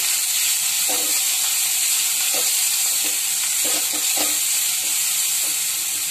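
Grated carrot frying in hot oil in a metal kadai with a steady sizzle, while a wooden spatula stirs it, scraping and knocking against the pan about half a dozen times.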